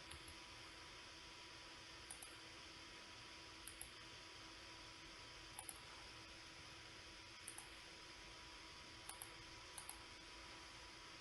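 Computer mouse clicking: pairs of small, sharp clicks every one to two seconds, about seven times, over a faint steady hiss and hum.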